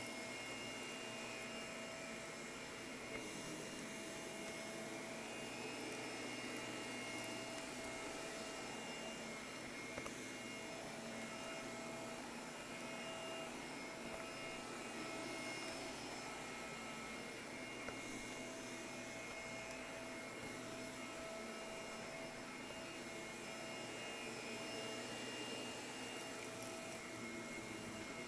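Shark vacuum cleaner running steadily, a constant motor whine with airflow rush.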